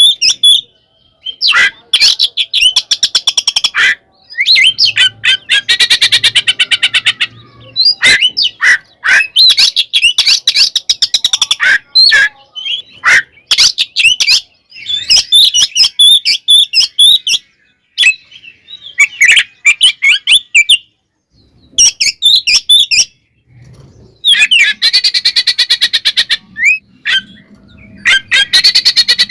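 Oriental magpie-robin (kacer) singing in loud bursts of varied whistled notes and fast rattling chatters, with short pauses between phrases. This is an excited, fighting-style song (ngeplong, ngekek).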